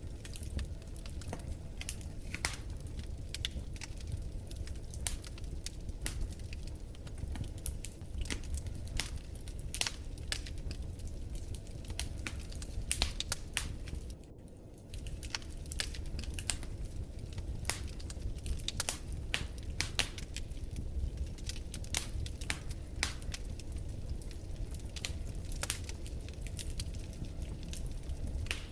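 Wood fire crackling in a fireplace: irregular sharp pops and snaps, several a second, over a steady low rumble of burning. Just under halfway through, the sound briefly dips for about half a second.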